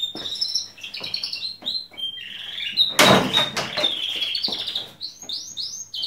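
Small birds chirping steadily in quick, falling chirps, several a second. About halfway through comes a loud scraping crunch as the fridge door's plastic inner panel is worked loose.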